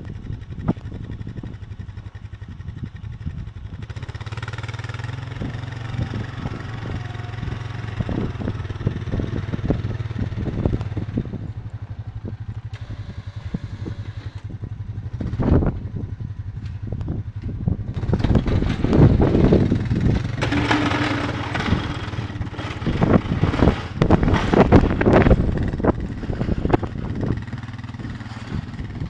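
An engine running steadily, with loud irregular rushing and crackling noise over it that swells and fades twice.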